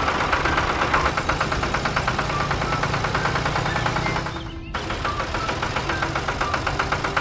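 A small engine running with a fast, even chugging beat. The sound drops out briefly a little over halfway through, then carries on.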